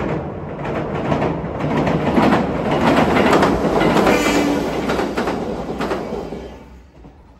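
JR West 213 series electric train running over a steel girder bridge: wheels clacking over rail joints over a rumble from the bridge. It grows louder as the train passes close by, then fades away near the end.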